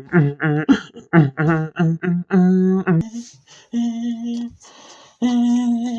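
A voice in quick, sing-song syllables ending in a long held note, then several drawn-out vocal calls held on a steady pitch.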